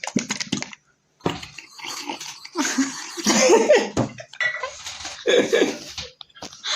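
A person imitating a sound with their mouth, a run of noisy, breathy vocal noises in several bursts with short breaks about a second in and about four seconds in.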